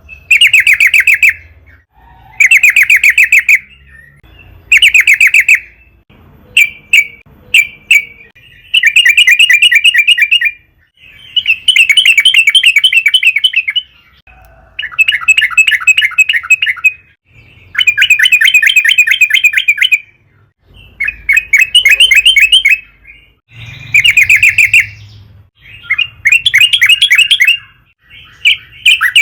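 Yellow-vented bulbul (trucukan) singing loudly in about a dozen phrases of rapid, chattering notes, each one to three seconds long, with short pauses between them.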